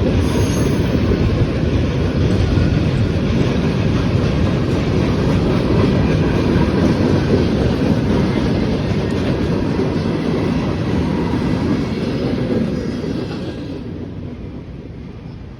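Freight cars of a CSX manifest train rolling past on steel wheels, a steady loud rumble that begins to fade away over the last couple of seconds.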